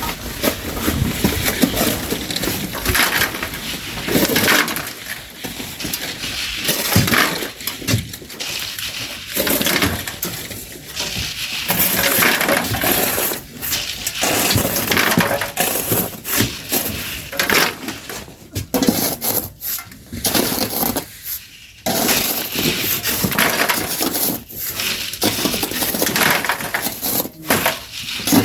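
Shovels scraping into gritty sand and gravel and tossing it, with irregular crunching and stones clinking and rattling.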